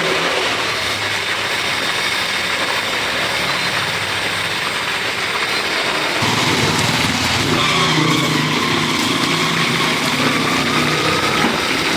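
Street traffic: a motor vehicle's engine running close by, getting louder from about six seconds in, over a steady street hubbub.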